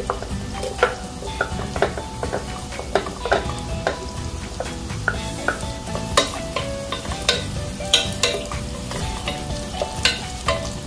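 Garlic and chopped red onion frying in hot oil in a pot, sizzling, while a wooden spatula stirs them, tapping and scraping against the pot many times.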